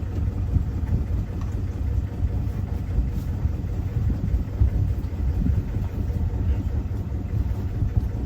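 A sailboat's inboard engine idling steadily just after starting, a low, even rumble.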